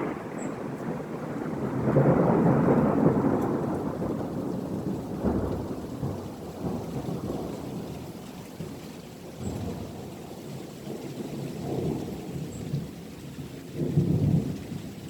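Thunder rumbling in several rolling waves over steady rain. The loudest roll comes about two seconds in, a sharper clap follows a few seconds later, and smaller rumbles swell again near the end.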